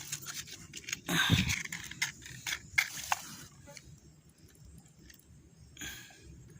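Scraping and a quick run of sharp clicks and crackles from handling twigs and kindling while trying to light a small campfire, with a brief voice about a second in; it goes quieter after about three seconds, with one short scrape near the end.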